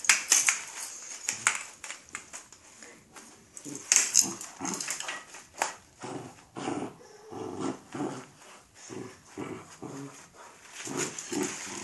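Dog growling and whining in short bursts, about two a second, while tugging on an umbrella in a tug-of-war, with scattered clicks and rustles from the struggle.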